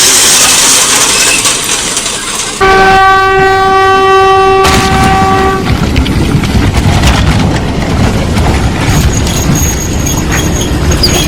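A passing train: loud rushing noise, then the train horn sounds one steady, unbroken blast of about three seconds from about two and a half seconds in, followed by the loud rumble and rattle of the train running by.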